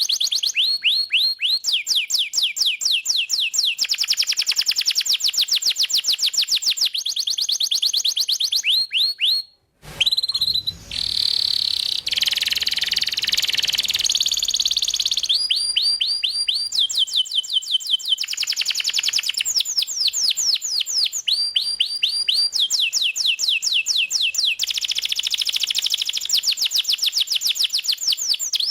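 Domestic canary singing a long song of rapid trills, each a fast run of repeated notes that switches to a new phrase every second or two. The song drops out briefly just under ten seconds in, then carries straight on.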